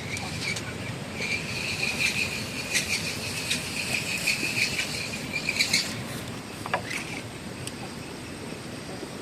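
An insect trilling: a steady, high-pitched buzz that stops about six seconds in. A few faint clicks are heard over it.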